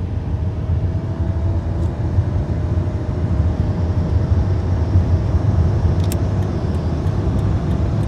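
Chrysler 2.7-litre V6 of a 1999 Dodge Intrepid accelerating at part throttle, heard from inside the car. A steady low engine and road drone carries a faint tone that rises slowly as the speed climbs.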